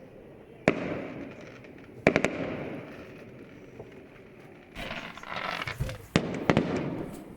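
Fireworks going off: a single sharp bang about a second in, a quick run of bangs around two seconds, then a stretch of crackling followed by two more bangs near the end, each bang trailing off in echo.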